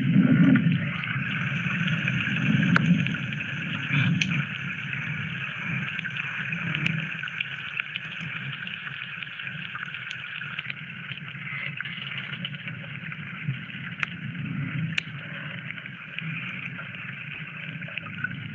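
Underwater sound of the seabed picked up by a hydrophone: a dense, steady crackle of tiny clicks over a hiss, with a few sharper clicks and low swells that rise and fade.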